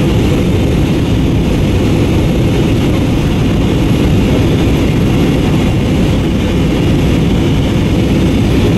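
Airbus A321-232 cabin noise in flight: a steady, loud drone of the jet engines and airflow, deep and even, with a faint thin high whine above it.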